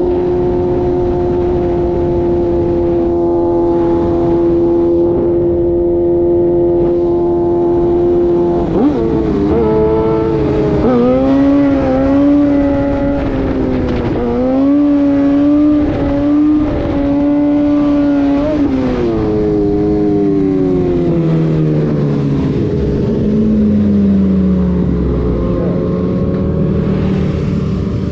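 A vehicle engine running at high revs. It holds one steady note for about eight seconds, then its pitch rises and falls in steps, then the revs wind down with falling pitch over the last several seconds.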